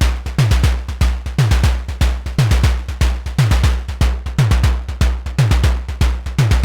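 Analog semi-modular drum synthesizer playing a sequenced percussion loop. Deep kick-like hits drop quickly in pitch over a low hum, with fast noisy clicks between them, and the pattern repeats about once a second.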